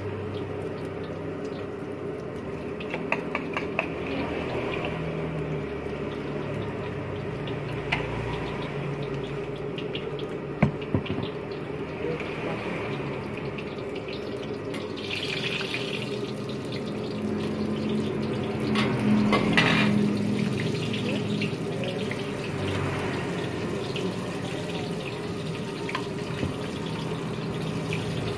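Eggs frying in hot oil in a steel wok: a steady sizzling hiss over a low steady hum, with a few sharp clicks and knocks along the way.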